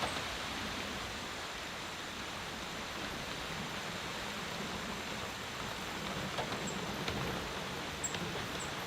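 Steady rainfall, an even hiss with a few light taps of drops, and two or three faint high chirps near the end.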